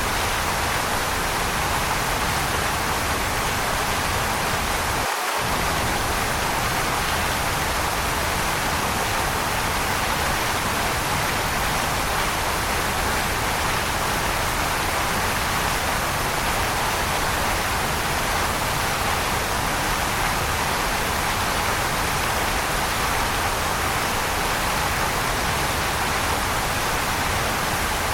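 Waterfall: a steady, even rush of falling water. Its low rumble drops out for an instant about five seconds in.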